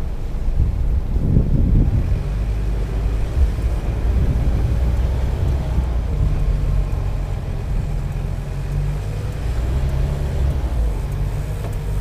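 A car driving slowly, with a steady low engine and road rumble and a faint engine tone above it.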